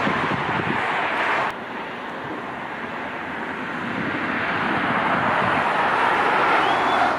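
Jet airliner engine noise mixed with wind on the microphone. The sound drops abruptly about a second and a half in, then builds back up over the next few seconds.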